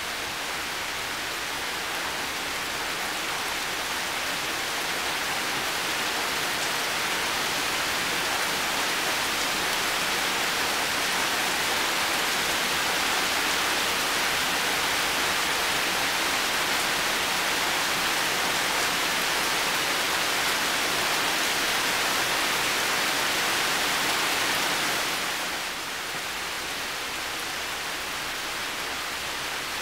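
Heavy rain falling steadily, an even hiss with no separate drops standing out. It slowly grows louder over the first ten seconds or so, then falls back noticeably about 25 seconds in.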